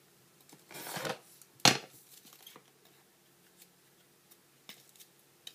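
Foam board and cutting tools handled on a work surface: a short scrape about a second in, then one sharp knock, then a few faint ticks.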